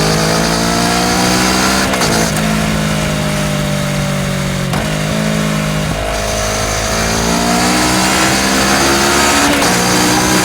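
Kawasaki Ninja 650 parallel-twin engine heard at its Akrapovič full exhaust system, accelerating through the gears. The note rises steadily and drops sharply at each upshift, four times.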